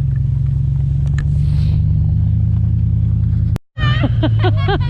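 Pickup truck engine running under way with a loud, steady low drone. Near the end the sound cuts out for a moment, then comes back with a run of short high-pitched cries.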